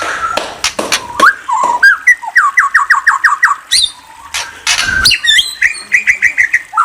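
A bird singing a rapid, varied song of quick series of short falling whistled notes, trills and sharp clicks, with hardly a pause.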